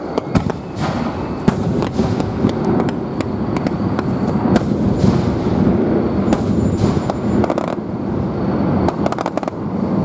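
Fireworks going off in a rapid, continuous volley: many sharp bangs and crackles, several a second, over a steady rumble.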